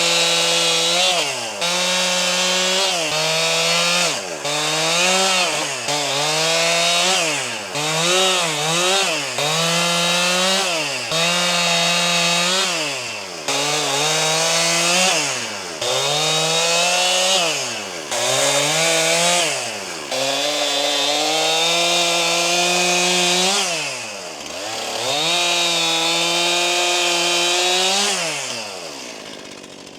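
Stihl MS261 C two-stroke chainsaw throttled up and down over and over, each burst lasting a second or two, with a few stretches of several seconds held at high revs. It falls back to idle near the end.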